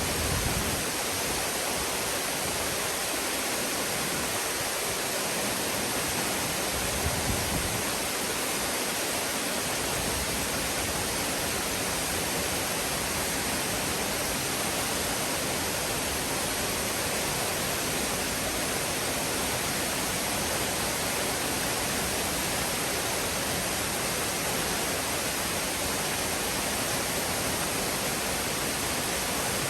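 Nunobiki Falls pouring steadily, an even rush of falling water with no break.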